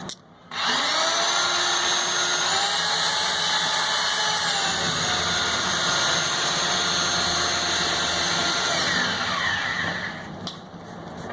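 Electric drill motor running: it spins up quickly about half a second in, runs steadily for about eight seconds, then winds down with a falling pitch near the end.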